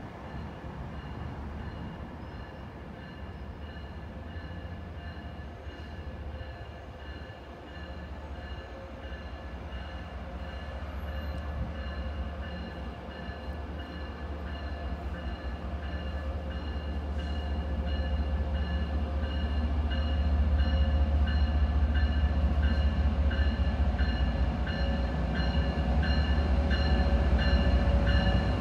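MBTA commuter rail diesel locomotive and train approaching, its low engine rumble growing steadily louder, with a steady high whine over it.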